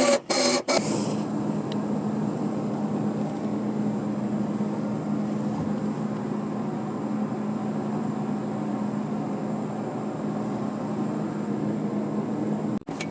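A steady mechanical drone, an even rushing noise over a low hum, that cuts off suddenly near the end.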